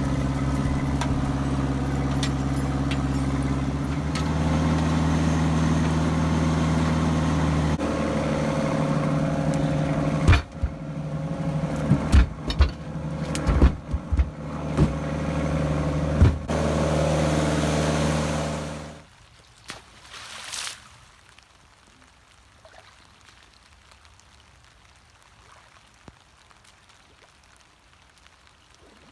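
Massey Ferguson tractor engine running steadily, its revs stepping up twice, with a run of sharp knocks and bangs over several seconds, then the engine shuts off suddenly and only a faint steady hiss is left.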